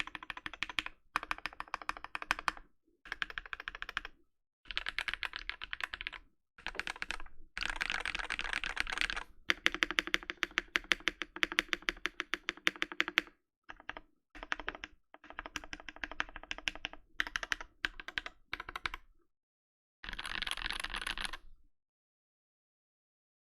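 Typing sound test on a rebuilt Space65 Cybervoyager custom mechanical keyboard with Giant V5 switches on an FR4 plate and GMK Bushido keycaps: rapid key clacks in bursts with short pauses, the fastest run in the middle. It stops about two seconds before the end.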